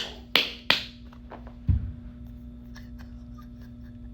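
Three sharp knocks in quick succession, then two softer ones with a dull thump, over a faint steady low hum.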